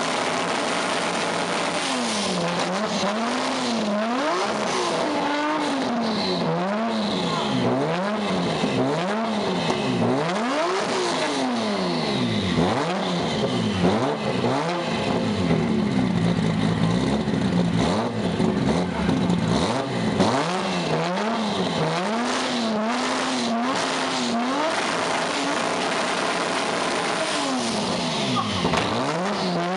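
Nissan Skyline R34 GT-R's twin-turbo RB26DETT inline-six, revving up and down again and again, its pitch climbing and dropping about every one to two seconds with heavy noise over it.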